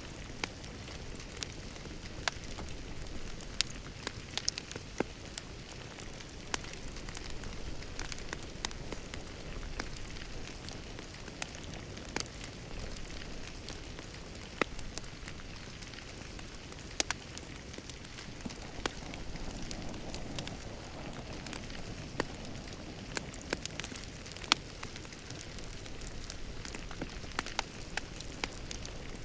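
Wood fire burning in a fireplace: a steady low rumble of flames with irregular crackles and sharp pops, a few louder snaps among them.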